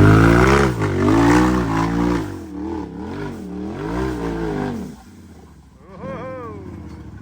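Side-by-side UTV engine revving hard, its pitch rising and falling several times as the driver works the throttle on a rock climb, then dropping off abruptly about five seconds in.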